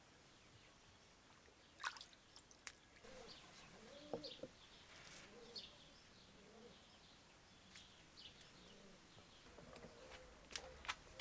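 Faint bird calls: short, low, bending calls and small high chirps, scattered through the whole stretch, with a few sharp clicks about two seconds in and near the end.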